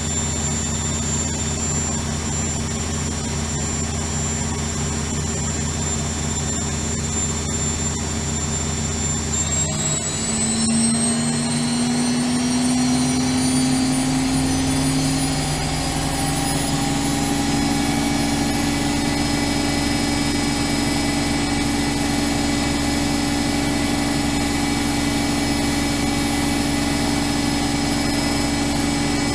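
Bauknecht WAK 5750 G washing machine spinning, its brushed motor running on a new pair of carbon brushes with a steady whine. About ten seconds in, the drum speeds up: the whine rises in pitch and then settles at a higher, steady spin speed.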